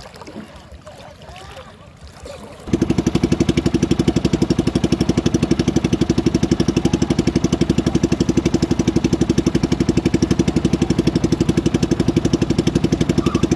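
A small boat engine starts running abruptly about three seconds in and keeps up a loud, fast, even chugging beat. Before it comes in there is only faint wind and water noise.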